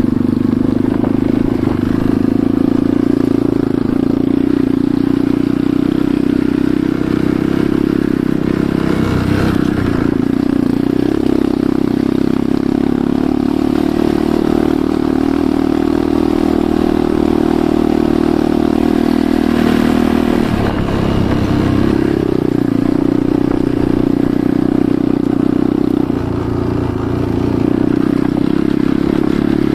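Enduro motorcycle engine running steadily under way. Its note drops and picks up again about nine seconds in and again about twenty-one seconds in.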